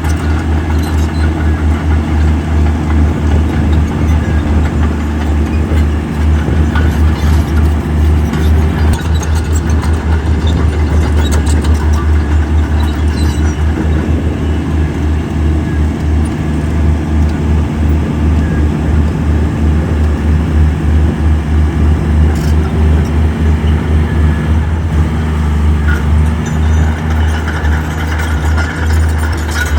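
Heavy earthmoving machine's diesel engine running steadily with a deep, fast throb, and a few light clanks over it.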